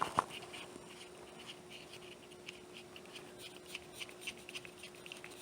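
Threaded CO2 cartridge holder being screwed by hand onto a Charles Gallo drain gun: a click near the start, then small scratchy ticks several times a second as the threads turn, over a faint steady hum.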